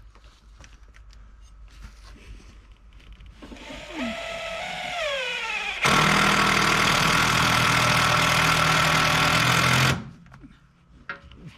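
A power drill/driver driving a screw into framing. Its motor starts up with a shifting pitch, then runs loudly under load for about four seconds and stops suddenly.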